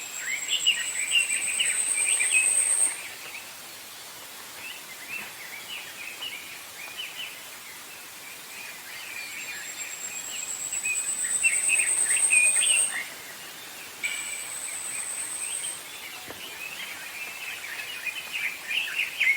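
Wild birds chirping and twittering, with a high, thin buzzing trill that rises slightly in pitch over two to three seconds, heard three times.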